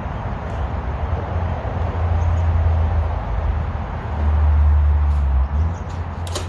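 Small petrol engine running steadily, its low drone shifting down and back up in pitch a couple of times, with a sharp click near the end.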